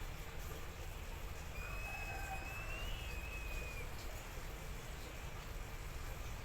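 A bird's single long, thin whistle lasting about two seconds, rising slightly and then falling away, over a steady low rumble of wind.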